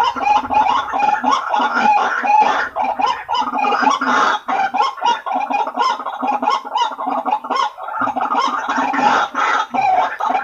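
White-breasted waterhen lure call: a loud, unbroken run of rapid, repeated honking 'ruak-ruak' notes, several a second.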